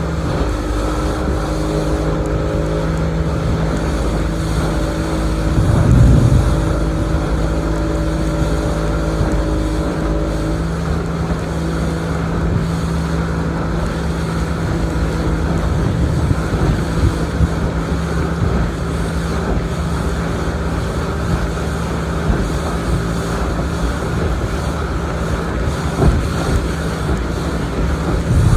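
Motorboat engine running steadily while the boat is under way, with wind rushing over the microphone. Two louder low surges come about six seconds in and near the end.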